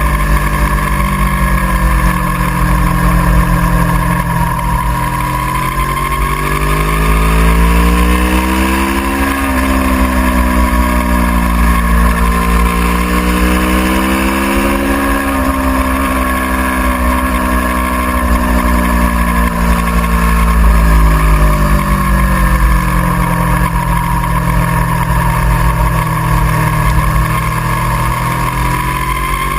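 Aprilia Tuono V4R's V4 engine running hard on track, its pitch rising and falling as the revs climb and drop through the corners, with a sudden dip about nine seconds in, over a steady low rumble.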